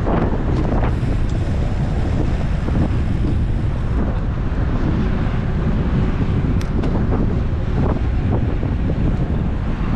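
Wind buffeting an action camera's microphone on a moving road bike, a steady low rumble with a couple of faint ticks.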